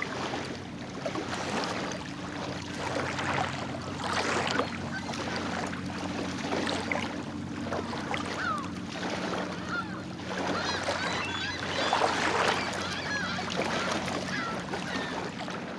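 Geese honking repeatedly, heaviest about three seconds in and again near the end, over a steady low hum.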